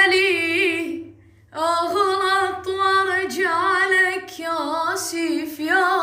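Unaccompanied solo chanting of a Shia elegy (latmiya): one high voice holding long notes with wavering, ornamented pitch. It breaks off briefly about a second in, then goes on.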